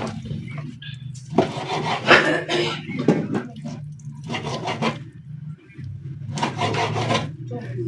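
Knife sawing through chunks of raw beef in several strokes with short pauses between them, over a low steady hum.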